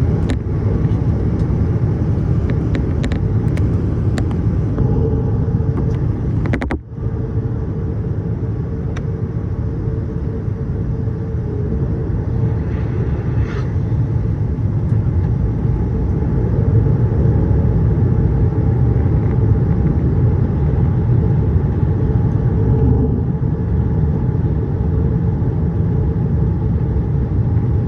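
Boeing 787-8 airliner in flight: a steady low rumble of engine and airflow noise. There are a few faint clicks around three to four seconds in and a brief drop in level about seven seconds in.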